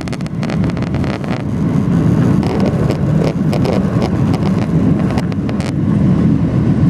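Inside the cabin of a Ryanair Boeing 737-800 during takeoff: a loud, steady engine and airflow rumble, with many short rattles and clicks over it.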